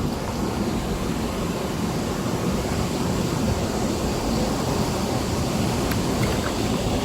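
Steady wind buffeting the microphone over the rushing wash of river water, a constant noise heavy in the low end.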